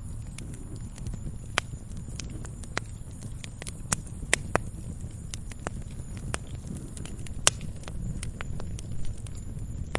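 Wood fire crackling: irregular sharp pops and snaps over a low, steady rumble of burning, with one louder pop about three quarters of the way through.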